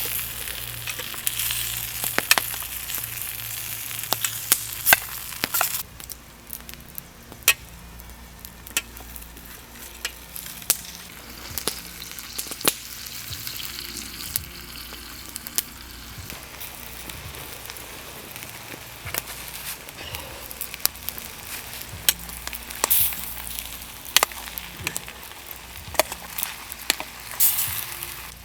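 Food frying in a pan: a steady sizzle with frequent sharp pops and spits, louder for the first few seconds, quieter from about six seconds in, and swelling again near the end.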